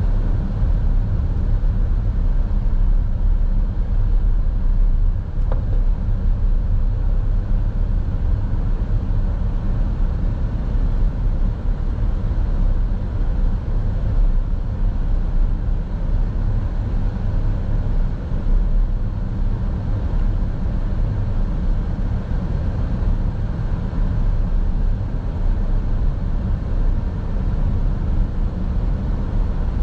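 Car driving, with a steady low rumble of road and engine noise heard from inside the cabin.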